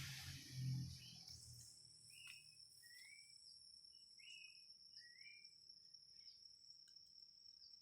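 Faint insect chirring, one steady high-pitched trill, with a few short rising chirps over it. A brief rustling noise comes before it in the first second.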